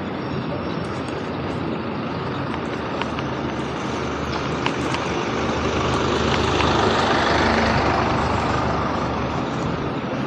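Road traffic noise: a motor vehicle passes, growing louder past the middle and then fading.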